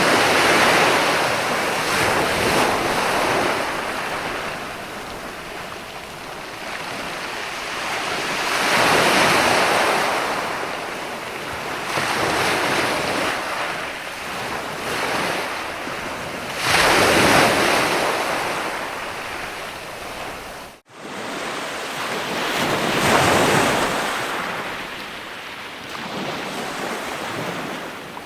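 Ocean surf: waves breaking and washing back, the rush swelling and fading every six to eight seconds. About three-quarters of the way through, the sound cuts out for a split second.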